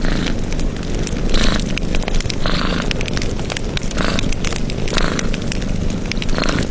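Wood fire crackling, with dense small pops and snaps over a steady low rumble and short hissing flares about once a second.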